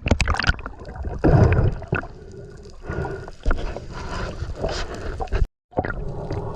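Water sloshing and gurgling in irregular surges, with a few knocks. About five and a half seconds in it cuts briefly to silence, then gives way to a steadier hum.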